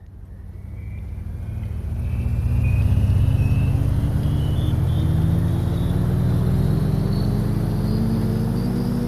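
A motor vehicle's engine running, fading in over the first few seconds and then holding steady, its pitch rising slowly throughout.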